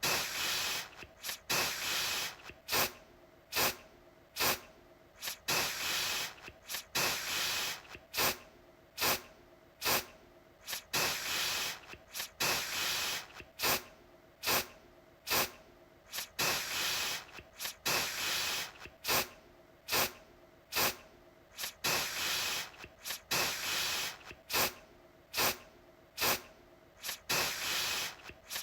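Aerosol deodorant can spraying in repeated bursts about a second apart, mostly quick short puffs with now and then a longer spray of about a second.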